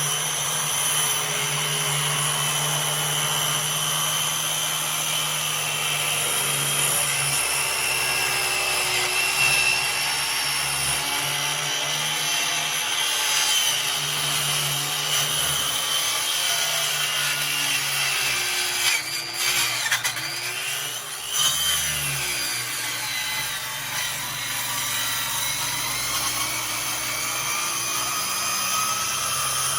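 Electric power saw running steadily through a cut in a panel, its motor whine unbroken, with two brief dips in pitch and level about two-thirds of the way in as the blade loads up.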